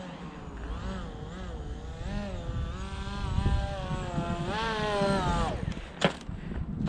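Small electric brushless motor and propeller of an RC model plane whining, its pitch rising and falling with the throttle, then cutting off about five and a half seconds in. A sharp thump follows a moment later.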